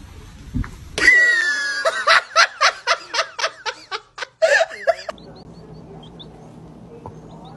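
A person laughing hard, a rapid run of repeated pulses lasting about four seconds, which stops about five seconds in and leaves only a faint steady hum.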